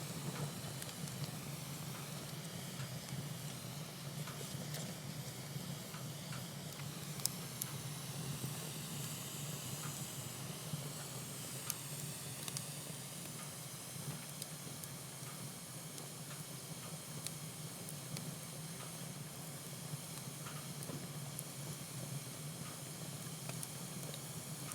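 Wood fire in a fireplace hissing steadily around a burning hollow twig, with a few faint sharp crackles scattered through, the clearest about seven seconds in.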